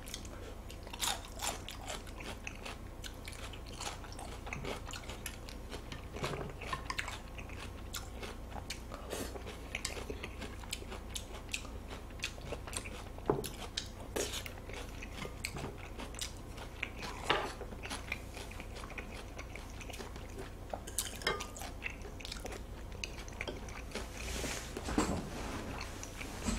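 A person chewing and biting food close to the microphone: a run of faint, irregular crunches and mouth clicks, with a few louder bites now and then.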